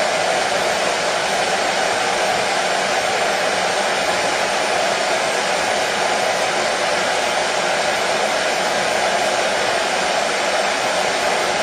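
Hair dryer running continuously, a steady whooshing rush of air that stays at the same level throughout, played as soothing white noise for colicky babies.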